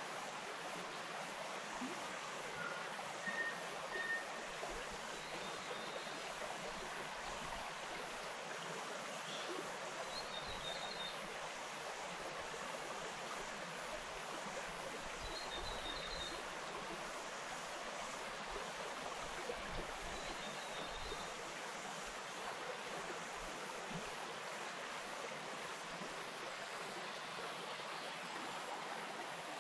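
Wainuitewhara stream flowing steadily in native bush, an even rush of water. A bird gives short high chirps every five seconds or so.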